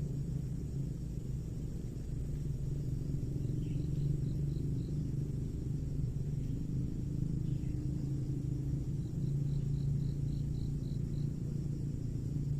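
Outdoor ambience: a steady low rumble with two short runs of high, evenly spaced chirps, about four or five a second, the first a few seconds in and a longer one later.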